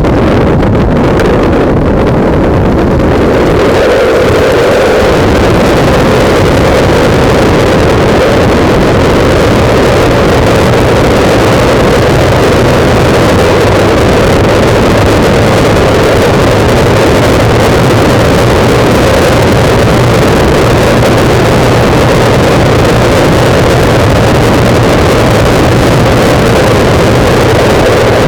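Loud, steady wind noise on a motorcycle-mounted camera's microphone while riding, with the motorcycle's engine running underneath.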